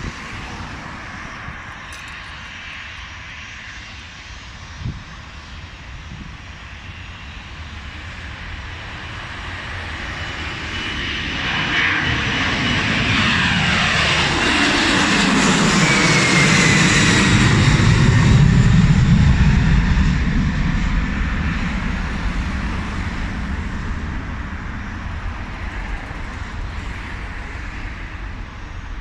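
Aircraft engines passing by at an airport, building to a peak about two-thirds of the way in and then fading, with the engine pitch dropping as it goes past.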